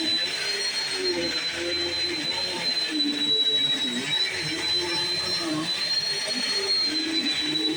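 Bissell CleanView Swivel Pet upright vacuum cleaner running: a steady high motor whine over a rush of airflow hiss, with a lower hum that wavers in pitch as it moves over the floor.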